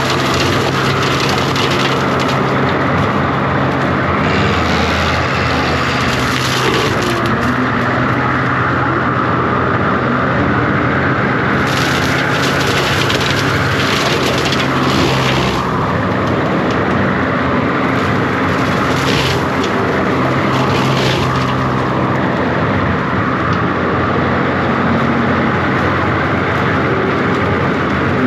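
John Deere 333G compact track loader's diesel engine running steadily under load, with three stretches of brush and limbs cracking and splintering as the attachment cuts through them.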